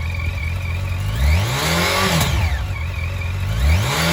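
2013 Yamaha FZ8's fuel-injected inline-four engine idling, then revved twice with the throttle blipped, its pitch climbing quickly and falling back to idle each time.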